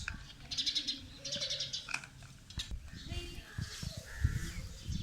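Indian ringneck parakeets chirping, with short, rapid, harsh chattering trills. Several low knocks, the loudest about four seconds in.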